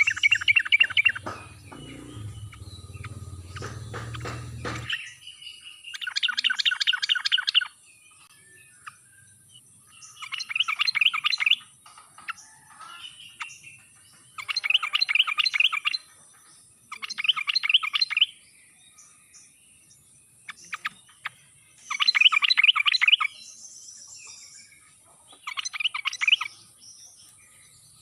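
Yellow-vented bulbul (trucuk) singing: about seven short, bubbly phrases of rapid chattering notes, each around a second long, spaced several seconds apart. A low rumble sounds under the first few seconds.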